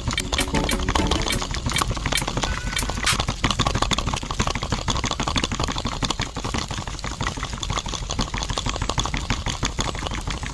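A small motor-driven miniature mechanism running with a fast, steady mechanical rattle.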